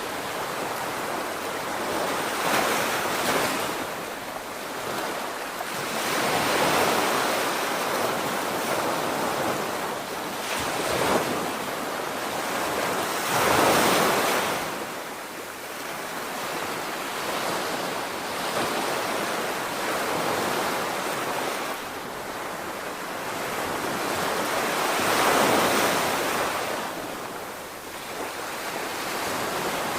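Sea waves breaking and washing on the shore, swelling and falling back every few seconds, with wind buffeting the microphone.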